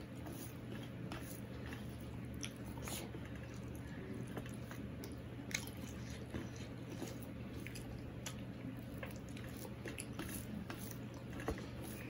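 A person eating with his fingers: soft squishes of rice being mixed with cauliflower-leaf paste by hand on a steel plate, and chewing with small wet mouth clicks, over a steady low hum.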